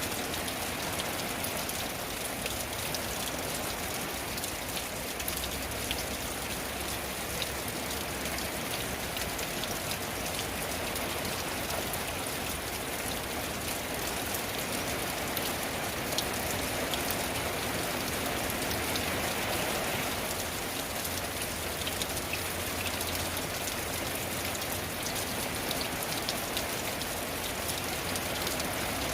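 Steady rain falling on a tin roof: an even rush of rain with many small, sharp drop ticks.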